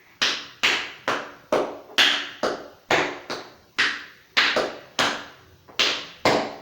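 Metal taps on tap shoes striking a hard floor: about fourteen sharp taps, roughly two a second in an uneven, syncopated rhythm, each with a short ringing decay.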